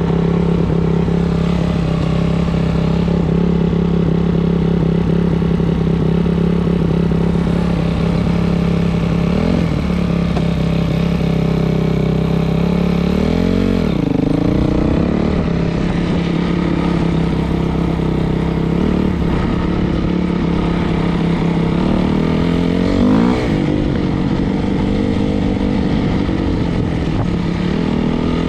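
Dirt bike's single-cylinder four-stroke engine idling steadily, with a few brief throttle blips that rise and fall in pitch.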